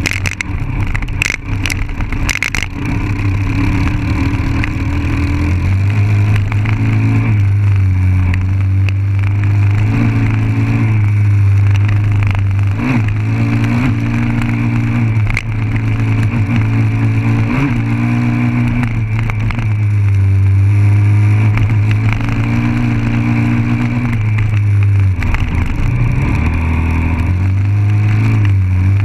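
Dirt bike engine running under throttle as it rides a rough dirt trail, its pitch dropping and picking up again several times as the throttle is eased and opened. A few sharp knocks come in the first few seconds.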